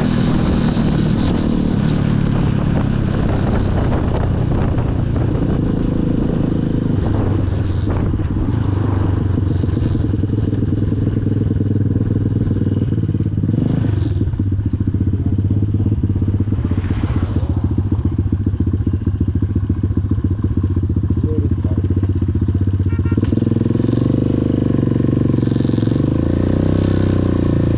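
Motorcycle engine running steadily under way, its note shifting about three-quarters of the way through as the throttle changes.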